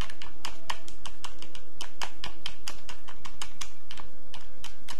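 Quick, uneven clicks and taps, several a second, from ASMR props handled close to the microphone, over a steady low background noise.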